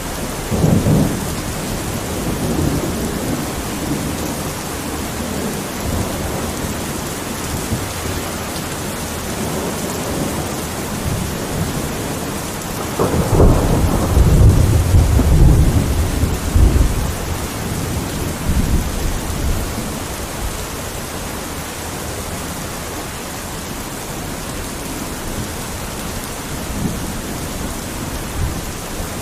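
Steady heavy rain with rolling thunder: a short rumble about a second in, and a longer, louder roll of thunder starting about halfway through that dies away over a few seconds.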